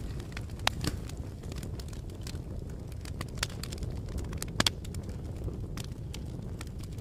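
Fire crackling: a steady low rumble of flames with irregular sharp pops and snaps, two louder pops standing out, one near the start and one just past the middle.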